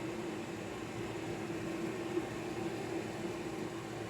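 Mainstays microwave oven running, a steady hum with one low, even tone and no change.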